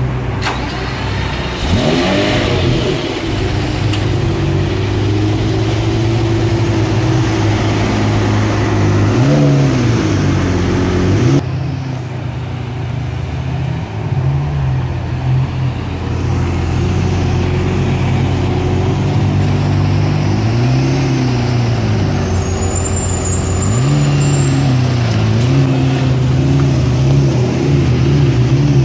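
Lamborghini Murciélago SV's 6.5-litre V12 running at low speed, with several short revs that rise and fall in pitch over its steady note as the car creeps forward.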